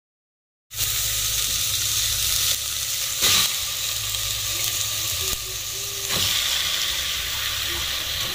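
Garlic, onion and ginger sizzling in hot oil in an aluminium pot while raw chicken pieces are added and stirred in. The sizzle starts abruptly about a second in and carries two brief knocks, the louder one about three seconds in.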